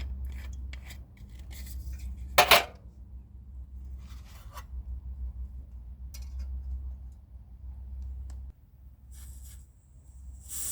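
Coffee-making gear being handled: scattered light clicks and rubbing, with one louder short scrape about two and a half seconds in, over a low steady rumble that fades near the end.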